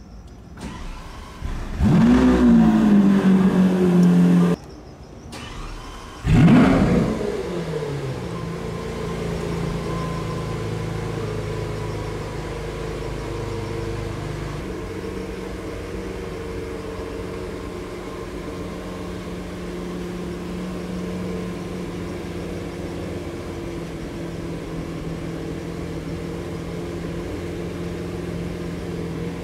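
Lamborghini Aventador S's 6.5-litre V12 starting twice. The first start catches about 2 s in with a sharp flare of revs, settles to a high idle and cuts off suddenly a couple of seconds later. The second start, about 6 s in, flares up and drops back into a steady idle.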